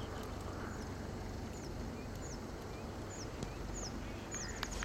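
A bird calling over steady outdoor background noise: short, high notes, each falling in pitch, repeated about once a second, then a quick run of them near the end. A couple of sharp clicks come right at the end.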